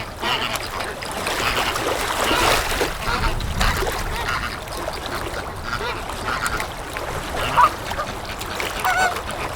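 Waterfowl calling: a few short honking and quacking calls over a steady background, the clearest two near the end.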